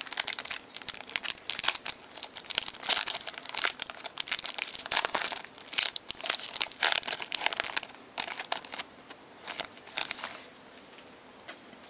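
Trading-card pack wrapper being crinkled and torn open: a dense run of crackles that dies down about ten seconds in.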